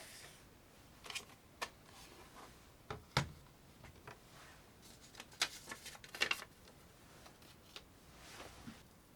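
A series of light clicks and knocks from small hard objects being handled, irregularly spaced, with the sharpest ones about three seconds in and again around five to six seconds in.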